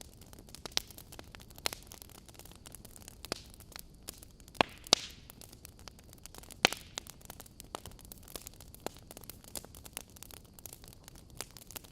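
Fireplace fire crackling: irregular sharp pops and snaps over a soft steady hiss, with a few louder pops in the middle.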